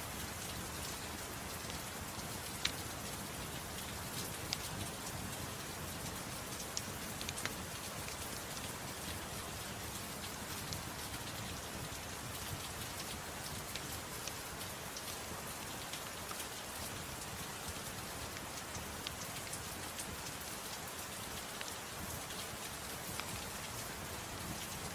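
Steady gentle rain mixed with a wood fire burning in a fireplace, its crackles heard as scattered sharp pops, a few of them standing out in the first several seconds.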